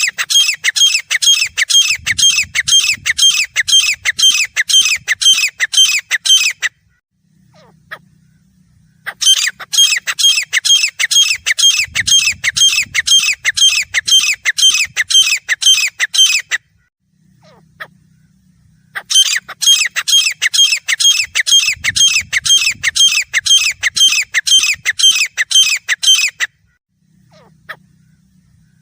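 Grey francolin calling: three long bouts of rapid, shrill repeated notes, about three a second, each bout some seven seconds long with short pauses between.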